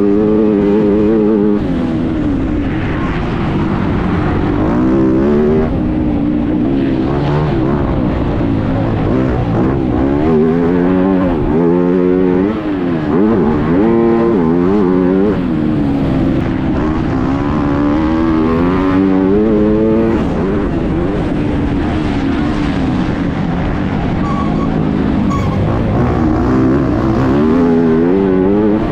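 MX2 motocross bike engine racing, revs repeatedly climbing and dropping as the rider accelerates, shifts and backs off, heard close up from an onboard camera.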